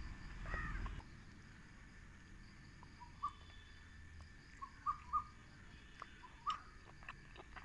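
Quiet outdoor background with a few faint, short bird chirps spaced a second or two apart, and a few soft clicks.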